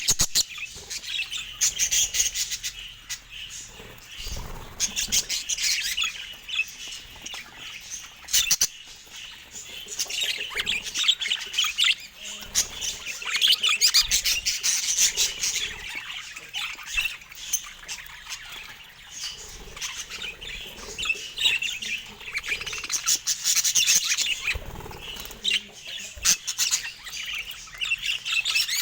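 Budgerigars chirping, chattering and squawking without pause, dense and overlapping.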